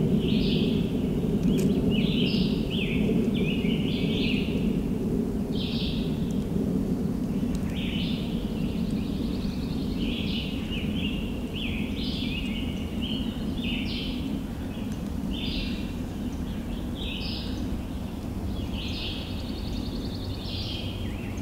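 Songbirds singing short phrases over and over, a few of them trilled, over a steady low rumble that fades slowly.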